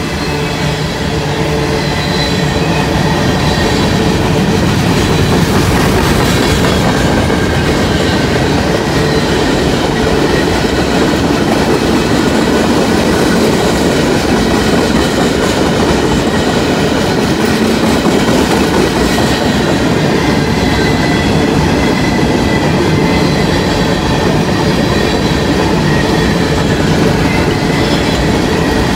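Freight train of covered hopper and tank cars rolling past, steel wheels rumbling and clattering on the rails in a steady, continuous run, growing a little louder over the first few seconds.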